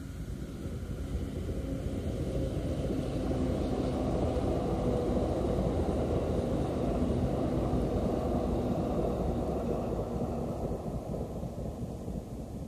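JR East E531 series electric commuter train passing at speed. The rumble of its wheels on the rails swells as it approaches, is loudest as the cars go by about halfway through, then fades away near the end.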